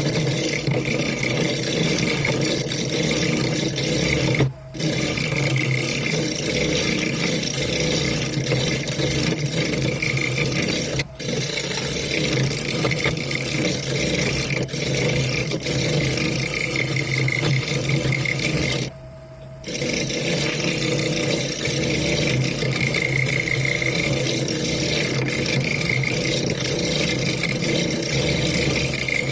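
Wood lathe running with a pine bowl being turned on it: a steady motor hum under a rough cutting noise. It breaks off sharply three times, briefly each time.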